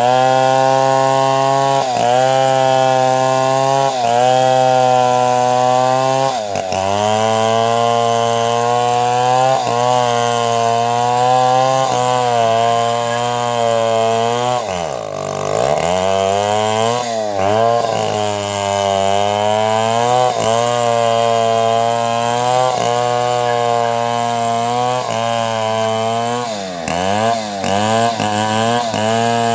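Two-stroke chainsaw running at high revs while cutting timber into planks, its pitch sagging briefly about every two seconds as the chain bites. The engine dips deeply about halfway through and several times in quick succession near the end.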